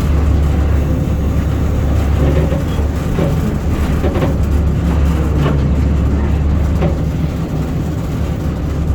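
Class 08 diesel shunter's English Electric six-cylinder engine running with a steady low drone, heard from inside the cab, with a few light clanks in the middle.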